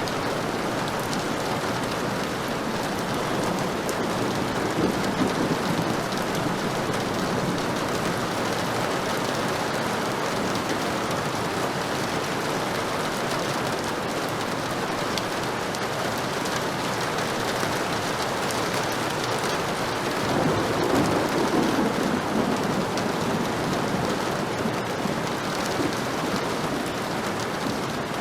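Heavy rain falling steadily, with a low rumble of thunder swelling up twice, about five seconds in and again past twenty seconds.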